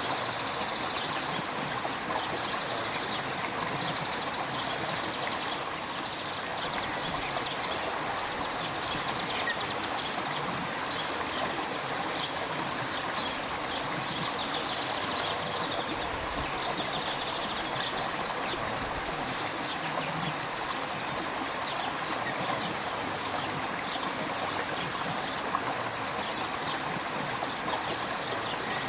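River water flowing and rushing steadily, a constant even wash of sound.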